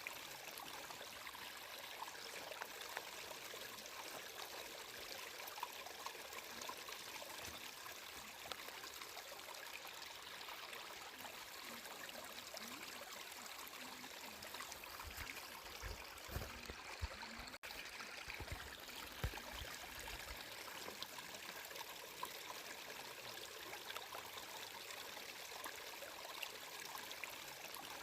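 Flowing water trickling and splashing steadily, a continuous hiss with fine droplet patter. A few soft low thumps come about halfway through.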